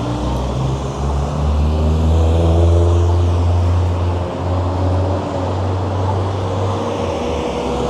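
Road traffic: motor vehicles passing, their engine notes slowly rising and falling over a strong, steady low rumble.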